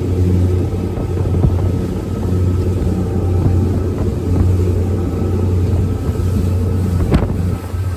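Speedboat engine running steadily with a low hum. A single brief, sharp knock comes near the end.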